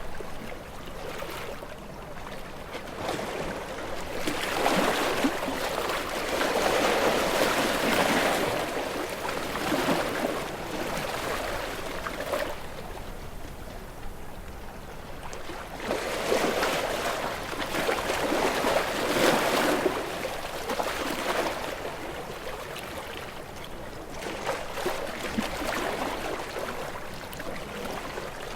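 Ocean waves washing in and receding: a wave surges in and swells about 4 seconds in, another in the middle, a smaller one near the end, with quieter rushing water between.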